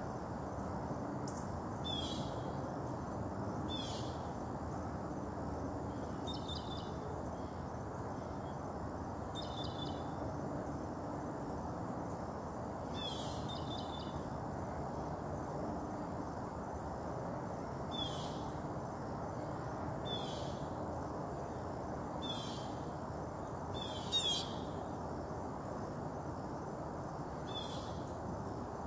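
A bird calling over and over, one short call sweeping quickly down in pitch every two seconds or so, over a steady low background hiss.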